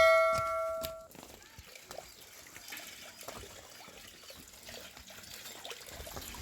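A struck metal object rings with a clanging, bell-like tone that fades and cuts off about a second in. Faint trickling water follows.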